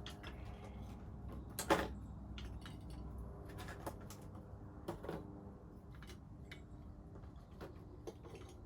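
Wood fire crackling, with irregular small pops and a louder snap a little under two seconds in.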